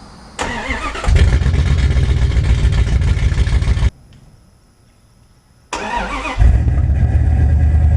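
Dodge Dakota's 318 V8 cranking and catching, then running with a deep exhaust rumble, heard twice. Each run cuts off abruptly.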